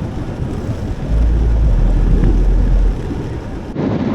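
Wind buffeting the camera microphone during a bike ride: a loud, gusty low rumble that swells and drops. Near the end the sound changes abruptly.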